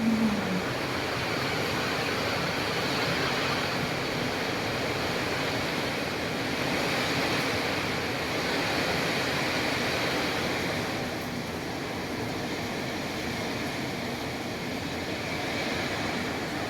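Rain falling in strong wind: a steady, even hiss.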